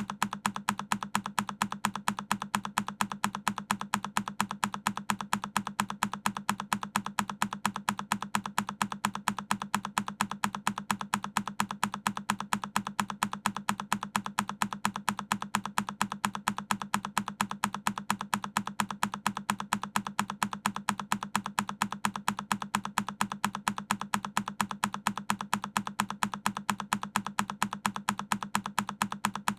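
A single key on a Keychron K10 mechanical keyboard pressed over and over, each press a short sharp click, repeating at a steady even rhythm a few times a second.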